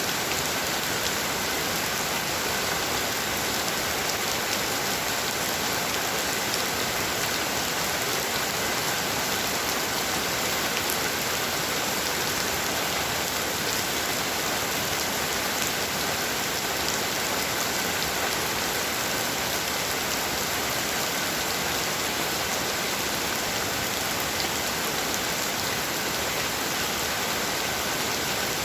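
Heavy rain falling steadily, an even hiss with scattered sharp drop ticks and no change in strength.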